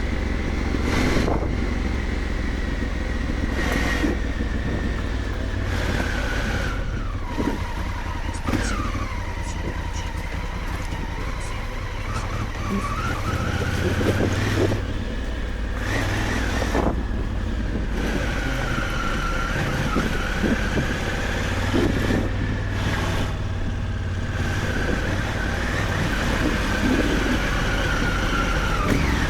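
Honda Africa Twin motorcycle engine running on an off-road trail, its pitch rising and falling with the throttle, with a few short knocks along the way.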